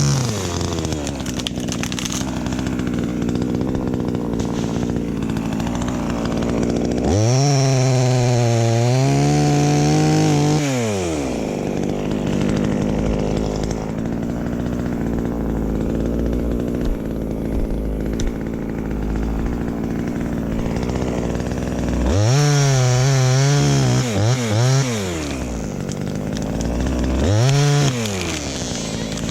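Two-stroke chainsaw idling, then revved up to high speed and held there for a few seconds before dropping back to idle. This happens three times: twice for several seconds and once briefly near the end.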